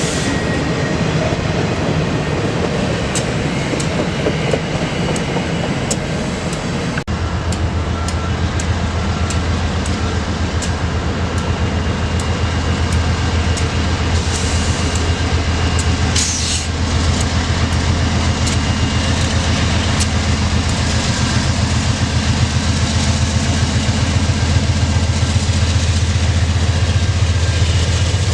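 Freight train rolling past, its wheels clicking over rail joints about once a second over a steady rumble. About seven seconds in the sound changes abruptly and a deep steady hum becomes much stronger.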